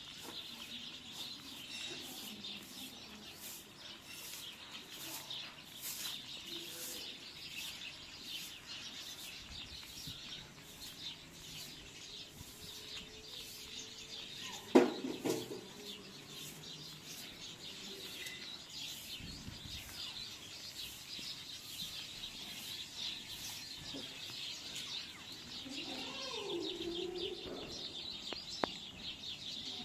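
Birds chirping steadily in the background, with a single sharp knock about halfway through.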